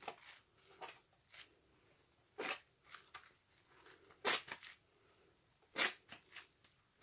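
A sponge soaked with sudsy washing-machine liquid being squeezed, giving wet squelches: three loud squeezes with softer squishes between them.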